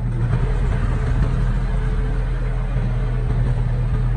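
Diesel engine of a piece of earthmoving equipment running steadily with a deep, even hum.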